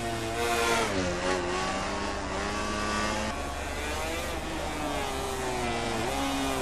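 MotoGP racing motorcycle engines at full race pace, revving high, with the pitch dropping sharply about a second in as the bike brakes and shifts down, then climbing and falling again through the gears.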